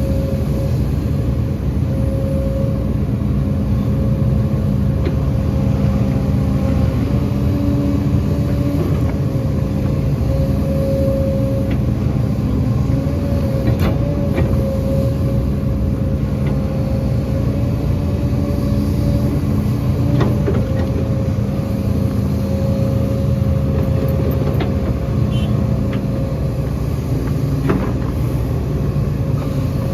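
Heavy excavator's diesel engine running steadily under working load, with a steady whine held over the rumble and a few faint knocks.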